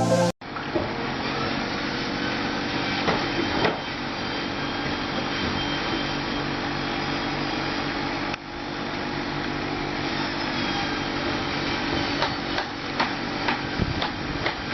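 Small motor of a mini tractor or mini JCB running steadily, with scattered clicks and knocks, most of them near the end.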